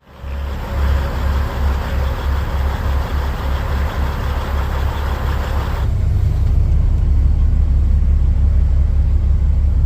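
Kenworth semi truck's diesel engine running with a steady low rumble. A hissing noise over it cuts off abruptly about six seconds in.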